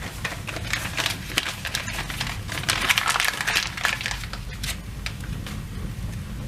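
Paper, cardboard and dry twig kindling burning in a fireplace, crackling densely and irregularly, loudest in the middle, over a steady low hum.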